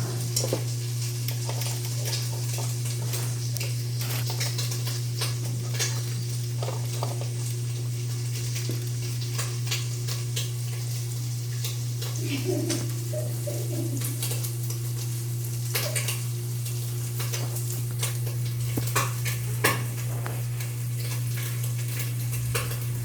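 Fire crackling in a fireplace: irregular sharp pops and clicks scattered throughout, over a steady low hum.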